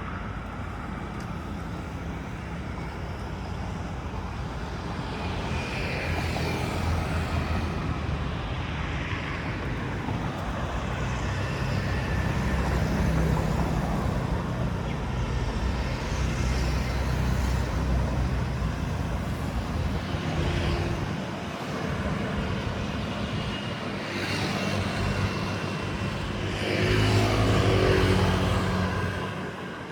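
Road traffic: motor vehicles running and passing one after another, each rising and then falling away, with the loudest pass near the end.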